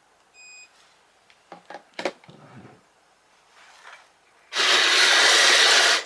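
A short electronic beep, a few clicks and knocks, then about a second and a half of loud, steady whirring from a radio-controlled tracked snow vehicle's drive running, which cuts off suddenly.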